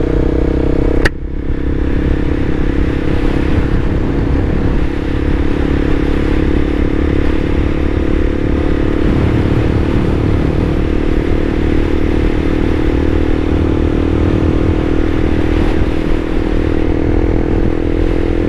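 A vehicle's engine and road noise while driving at a steady pace, with a single sharp click about a second in.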